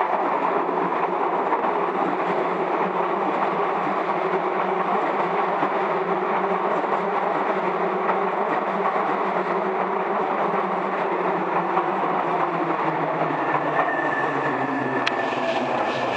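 Hankyu 9000 series eight-car electric train rolling past as it slows into the station: a steady rumble and clatter of wheels on rail. Near the end a tone falls in pitch as the train slows, then a high steady tone comes in with a few sharp clicks.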